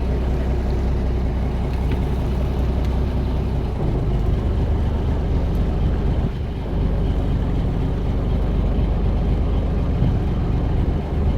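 Fishing boat's engine running steadily with a low drone, its pitch shifting slightly about four seconds in and briefly dropping about six and a half seconds in.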